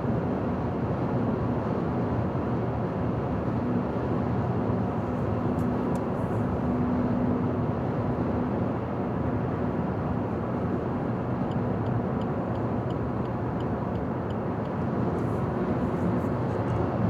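Steady road noise of a car travelling at highway speed: an even rush of tyre and wind noise with a faint low hum.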